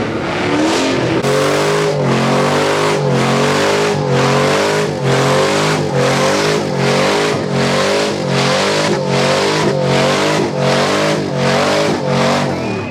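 Car engine revving hard in repeated rises and falls, about one and a half a second, with tyre squeal, as in a burnout.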